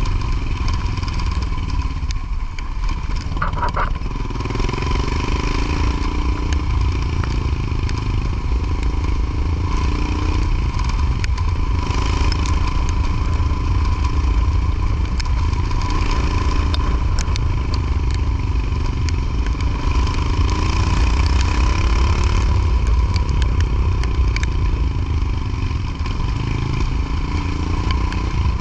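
Motorcycle engine running under way, its pitch rising and falling with speed, over a heavy low rumble of wind noise on the microphone, with scattered light clattering ticks.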